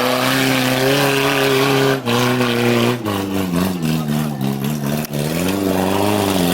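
Off-road 4x4's engine revving hard under load, its pitch rising and falling as the throttle is worked, with short breaks about two, three and five seconds in.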